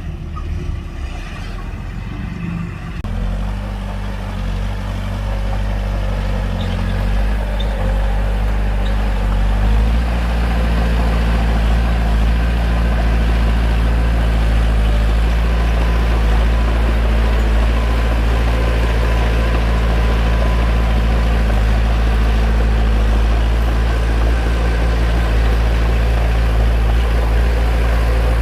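Bulldozer's diesel engine running, climbing in steps over the first ten seconds, then holding a steady, loud note.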